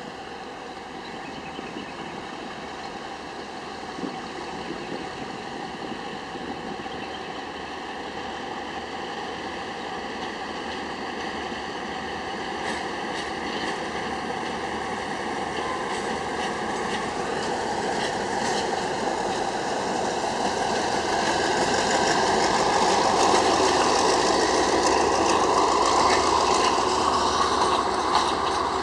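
Diesel-hauled passenger train drawing into a station. The diesel locomotive's engine grows steadily louder as it approaches and passes, then the passenger coaches roll by with wheels running over the rails, the whole train at its loudest in the last third.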